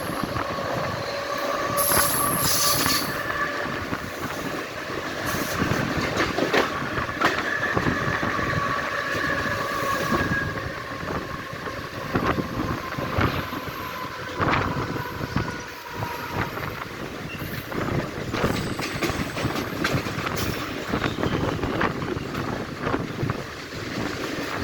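Mumbai suburban local train running on the rails, with continuous rattling and many clicks from the wheels. A high, held whine on several pitches sounds over the rattle for about the first half and then fades out.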